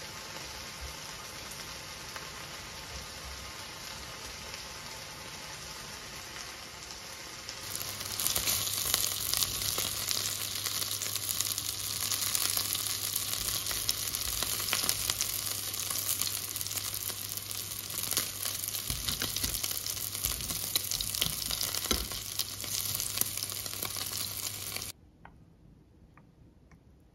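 Food frying in a hot pan: a steady sizzle with scattered crackles. It grows louder about a quarter of the way in and cuts off suddenly near the end.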